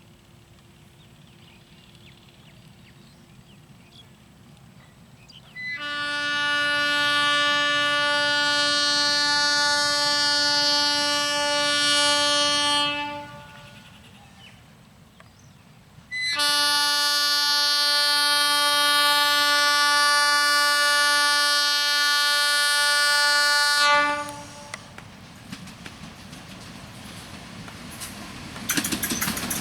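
Diesel locomotive's horn sounding two long, steady blasts of about seven seconds each, a few seconds apart. Near the end the clatter of the train's wheels on the rails starts to rise.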